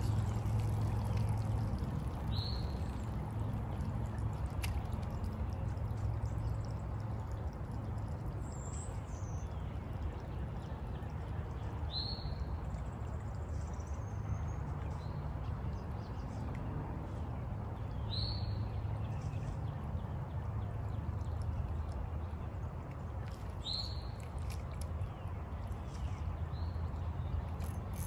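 A bird repeats a short, high, down-slurred call five times, every five or six seconds, over a steady low rush of outdoor ambience, likely the creek's flowing water.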